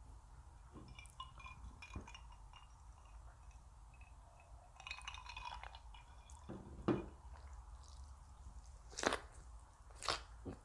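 Light clinks of tableware during the first half, then chewing with a few loud crunchy bites of raw vegetable about 7, 9 and 10 seconds in, close to the microphone.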